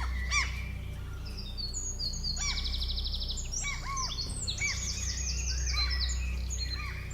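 Several birds chirping and singing in quick, overlapping high calls, with a fast trill about two and a half seconds in, over a steady low hum.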